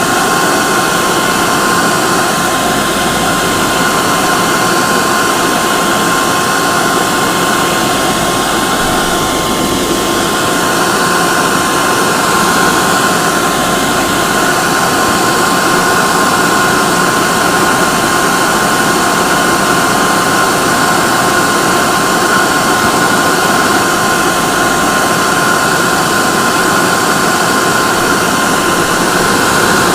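Hair dryer running steadily at a constant speed: an even rush of blown air with a steady high whine from its motor and fan.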